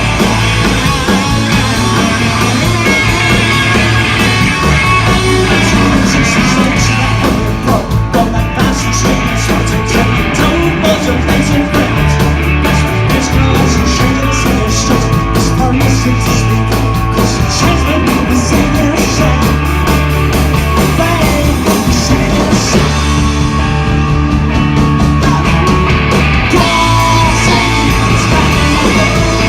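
A live southern punk rock band playing loud with full band.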